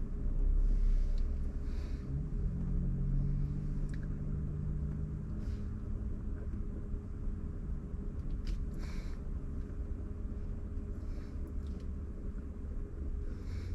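Car driving on a wet road: steady low rumble of engine and tyres, with a held engine hum for a few seconds and scattered faint ticks.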